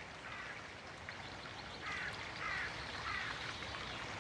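A bird's harsh, repeated calls over a steady outdoor hiss: one call near the start, then three more about half a second apart from about two seconds in.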